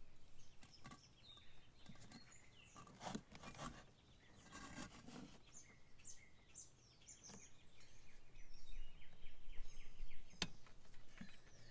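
Quiet outdoor background with scattered small bird chirps. Near the end comes a single sharp click as the generator's oil filler cap is opened to let the oil drain faster.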